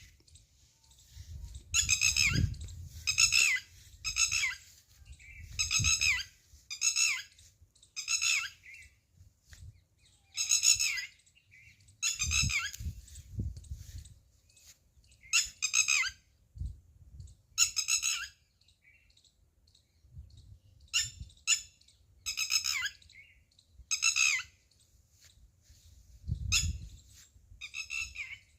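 A bird giving short, harsh calls over and over, one every second or two, with a few brief pauses.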